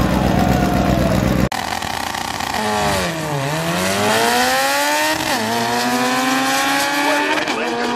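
A loud low rumble cuts off abruptly about one and a half seconds in. Then a drag-racing Honda Civic hatchback's engine is heard accelerating hard down the strip: its pitch dips, climbs steadily, and drops sharply at two upshifts, about two seconds apart, near the end.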